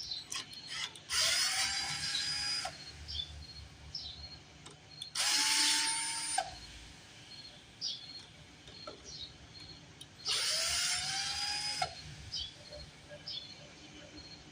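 Cheap new electric drill run in three short bursts, its motor whining up in pitch as it spins up each time and stopping abruptly.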